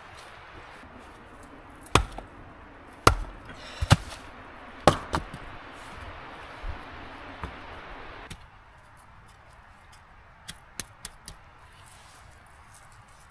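Several sharp, heavy chopping blows, struck at irregular intervals, over a steady hiss that cuts off suddenly about eight seconds in; a few light clicks follow.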